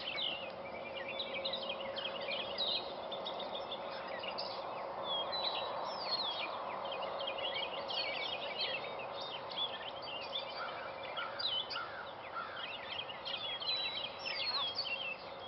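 Many small birds chirping in quick, overlapping calls over a steady background hum and ambient noise.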